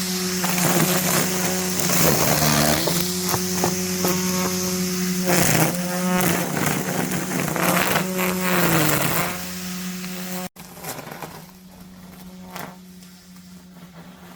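Petrol brush cutter running at high revs while cutting grass, its engine pitch dipping briefly several times as the head bogs under load. About two-thirds of the way through the sound cuts off abruptly and the machine continues much more faintly.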